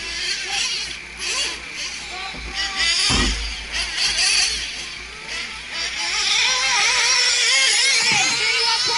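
Several nitro RC race trucks' small two-stroke glow engines running on the track, their high-pitched whine rising and falling as they rev through the corners and straights, louder over the last few seconds. A brief low rumble about three seconds in.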